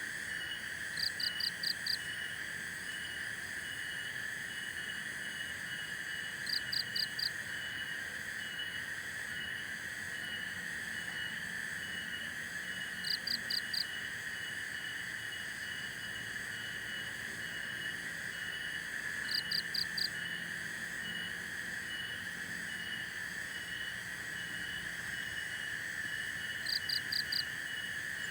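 Night chorus of insects: a steady high trill with a faster pulsing chirp over it. About every six seconds a louder call of four quick notes, five times in all.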